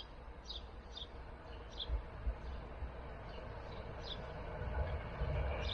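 A small bird chirping over and over, short high notes about every half second. Under it is a low rumble from an approaching train that grows louder toward the end.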